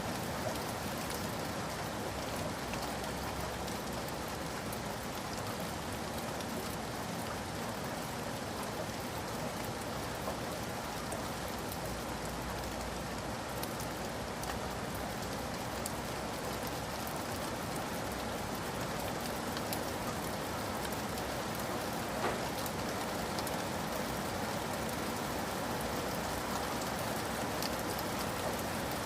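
Steady rain falling and pattering on surfaces, an even hiss of many fine drops with no lulls.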